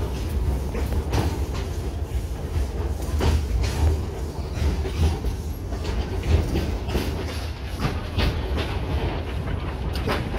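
Narrow-gauge train rolling along the track, heard from an open passenger carriage: a steady low rumble with irregular clicks and knocks of the wheels over the rail joints.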